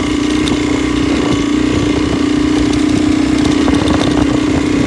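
Motorcycle engine running steadily, its drone holding an even pitch.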